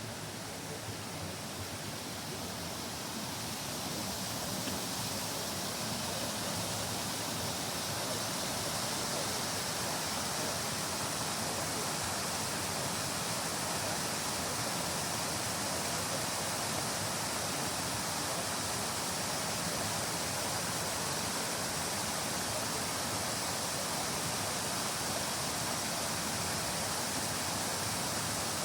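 Steady rushing of a stream's running water, growing louder over the first few seconds and then holding even.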